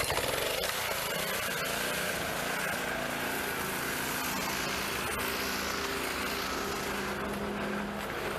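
Small gasoline engine of a pressure washer running steadily at constant speed.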